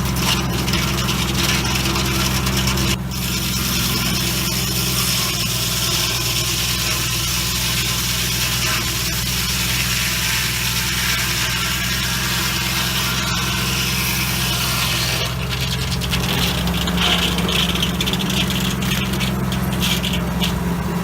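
Engine running steadily at a constant speed, with a steady hiss over it. The sound shifts slightly about three seconds in and again about fifteen seconds in.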